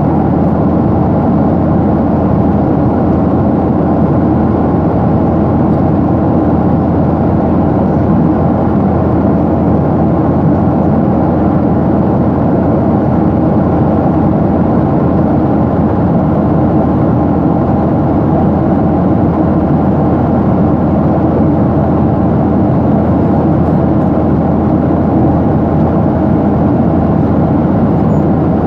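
Steady engine and airflow noise of a jet airliner in flight, heard inside the passenger cabin: an even, unbroken rumble with no change in level.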